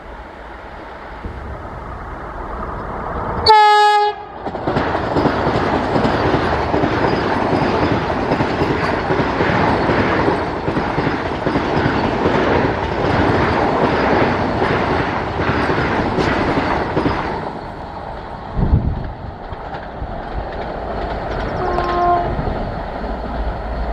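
An express train sounds one short horn blast, then passes at speed for about thirteen seconds, its wheels clattering over the rail joints, before the noise drops off. A second, fainter horn note comes near the end.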